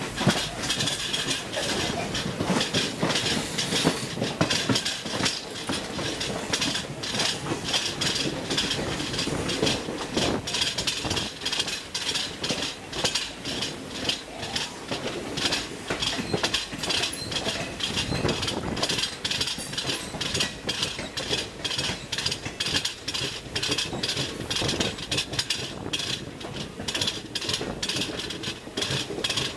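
Running noise of a moving passenger train heard from a coach doorway: steel wheels clattering over rail joints and points in quick, irregular clicks over a continuous rumble and hiss, while another train of sleeper coaches runs past on the adjacent track.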